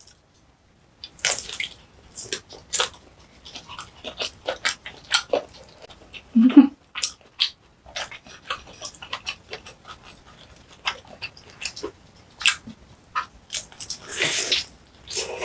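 Close-miked eating sounds of biting into and chewing a large sausage: irregular wet clicks, snaps and lip smacks, with a short hummed sound about six seconds in and a breathy, hissing slurp near the end.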